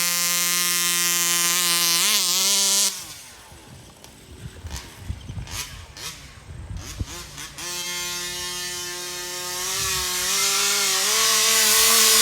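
TMR performance-ported 36cc two-stroke engine in a Rovan FT360R RC truck running at high revs. It cuts out about three seconds in, leaving scattered knocks and crunches. It revs up again at about eight seconds in, its pitch rising slightly.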